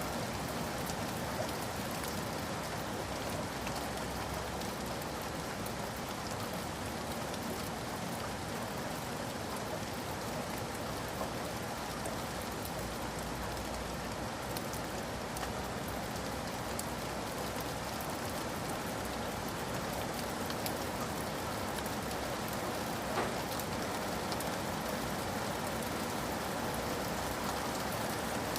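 Steady rain falling, an even hiss of drops with scattered small ticks, and one slightly louder tick near the end.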